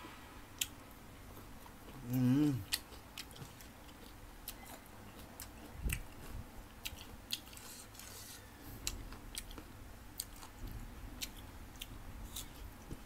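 A person chewing and crunching crisp green mango dipped in fermented-fish sauce, with many sharp separate crunches. A short hummed "mm" about two seconds in.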